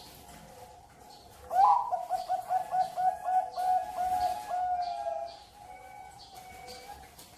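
Zebra dove (perkutut) singing: a rising opening note about a second and a half in, then a quick run of short coos at about three a second, closing on a longer drawn note. Fainter cooing sits underneath before and after the song.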